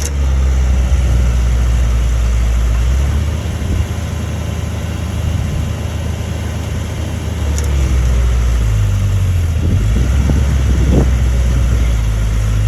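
Heavy diesel engine of a bulldozer running hard. It picks up at the start, eases off about three seconds in and climbs again around eight seconds.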